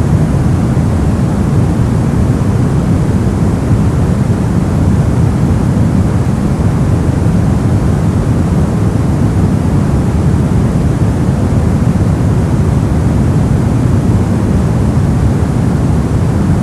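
Steady brown noise: a constant deep rushing hiss, strongest in the lows and dull at the top, with no change.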